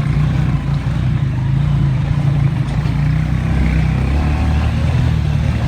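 Motorcycle engine running while riding, heard from on the bike, with a rush of road and wind noise over it.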